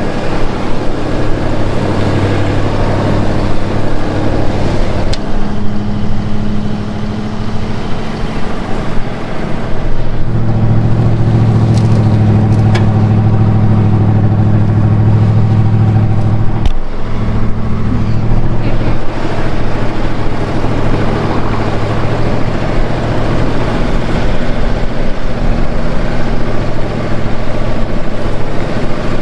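Ford F-150 pickup's engine running steadily under load as the truck drives through snow, its note growing stronger about ten seconds in and cutting out briefly near seventeen seconds before picking up again.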